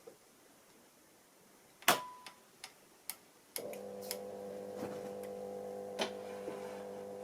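AEG Lavamat washing machine in diagnostic test mode: a sharp click with a short beep about two seconds in, then a few light clicks, and past halfway a steady electric hum starts as a component is switched on for testing.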